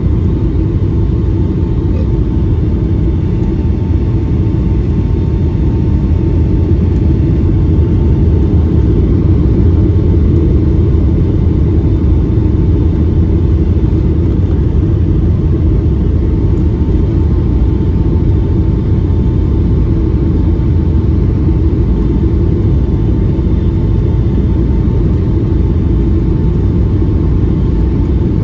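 Steady in-flight cabin noise of a Boeing 757-200 airliner: a low, even rush of engines and airflow, with a faint steady whine running under it.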